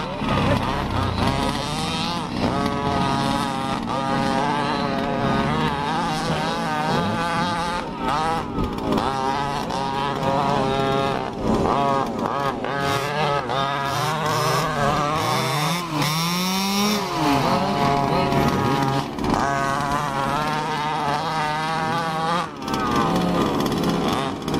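Small combustion engines of large-scale 1:5 and 1:8 RC cars buzzing as they drive around a track, several at once, their pitch rising and falling with the throttle; one revs up sharply about two-thirds of the way through.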